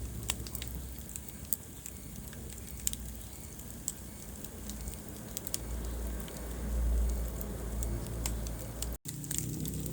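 Wood fire crackling in a fireplace: scattered sharp pops and snaps over a low, steady rumble of the flames. The sound cuts out for an instant about nine seconds in.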